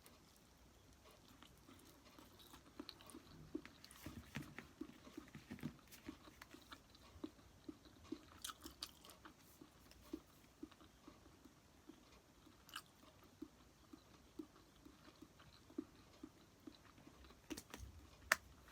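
Quiet, close-miked chewing of sushi: soft chews in a steady rhythm of about two to three a second, with a few sharp clicks.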